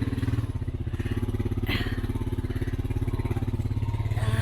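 Four-wheeler engine idling steadily with an even, low pulsing running note.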